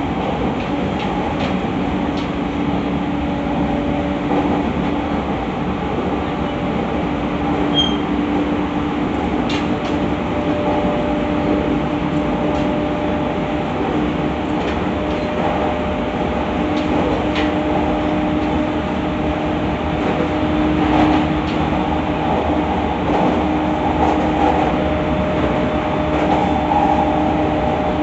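Interior running noise of an E217 series electric train at speed, heard from inside the passenger car: a steady rumble of wheels on rail with a hum held at an even pitch, and a few faint clicks and rattles.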